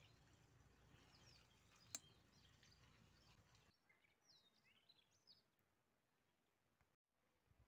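Near silence with faint bird chirps, and a single sharp click about two seconds in.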